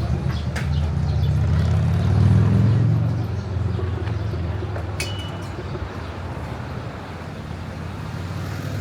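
Road traffic: a motor vehicle's engine rumble passes close, loudest about two to three seconds in, then fades away. A sharp click about five seconds in.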